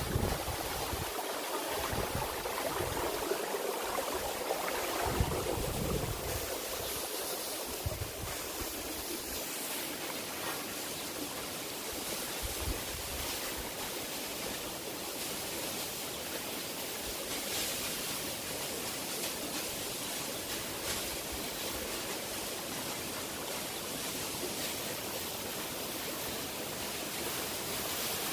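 Steady rushing noise of a waterfall's falling water. Wind buffets the microphone in the first few seconds.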